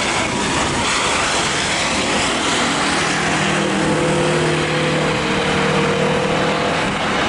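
Loud, steady jet noise from an Airbus A320-232's IAE V2500 engines as the airliner lands close by. Steady humming tones join the noise about two and a half seconds in.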